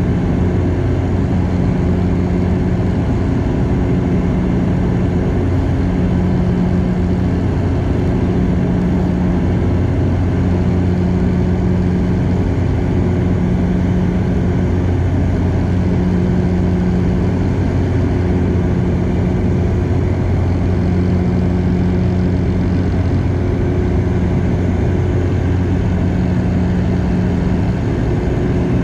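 Cabin drone of a Bombardier DHC-8 Q400's turboprop engines and propellers, loud and steady, with a low propeller hum and a tone above it that swells and fades about every two seconds.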